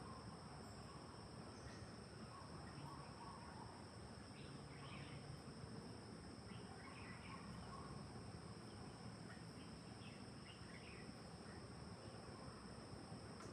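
Faint forest ambience: insects holding a steady, high, two-toned drone, with scattered short bird chirps over a low hiss.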